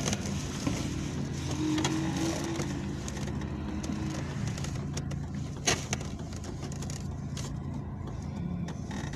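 Car engine running at idle or low speed, heard from inside the cabin as a steady low hum, with a single sharp click about five and a half seconds in.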